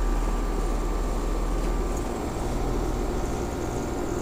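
Outdoor unit of a 2010 Bryant Evolution 5-ton two-stage heat pump running steadily in heating mode, a constant compressor and fan hum, with its outdoor coil frozen over and not yet in defrost.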